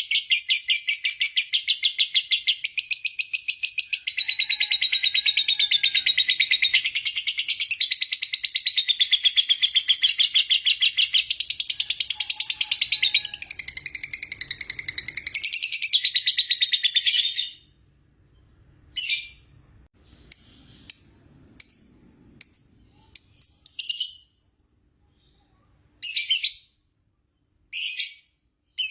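Lovebird giving its long 'ngekek' song: a continuous, fast, shrill chattering trill that runs unbroken for about seventeen seconds, then stops and gives way to short separate chirps.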